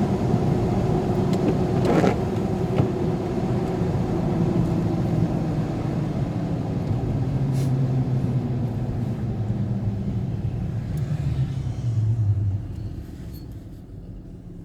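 Motor vehicle engine and road noise, the engine note falling slowly as the vehicle slows, with a short sharp knock about two seconds in; the sound drops away sharply near the end.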